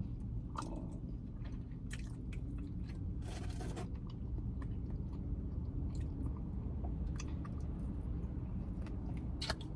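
Close-up chewing and biting into oven-roasted chicken wings, with scattered crunches and wet clicks over a steady low hum.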